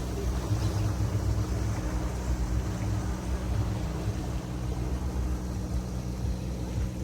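A river tour boat's engine running steadily with a low hum as the boat passes.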